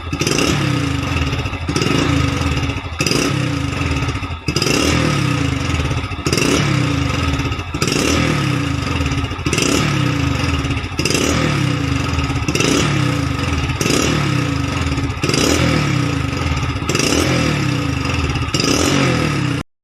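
Hero Splendor Plus's single-cylinder four-stroke engine blipped again and again through an aftermarket GCL silencer, about every second and a half, each rev falling away with the exhaust crackling and popping ("firing"). The sound cuts off suddenly near the end.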